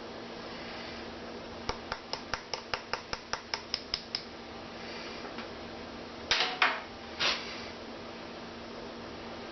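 A run of about a dozen light, sharp taps at about five a second, then a few short scraping sounds. These are typical of rapping a casting pattern to loosen it in a packed sand mold before drawing it out.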